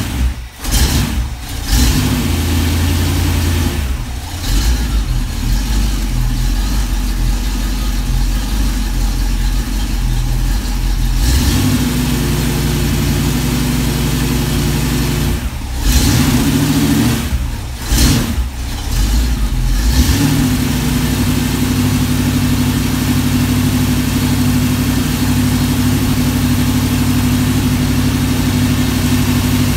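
Engine running on a run stand through a pair of Flowmaster mufflers, mostly at a steady idle. There are several brief changes in engine speed in the first 20 seconds, then a steady idle. The exhaust note is not loud.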